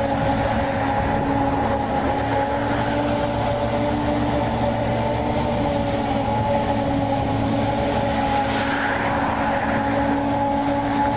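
Tracked dumper running at steady revs: a constant engine drone with a steady whining tone on top.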